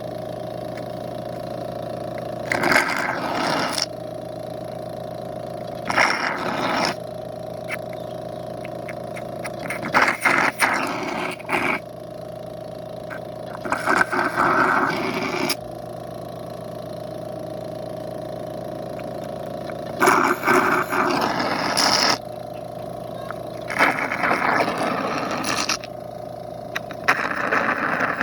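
Small motor of a honey suction device humming steadily, interrupted every few seconds by bursts of noise lasting a second or two as the suction tube draws in honey and air.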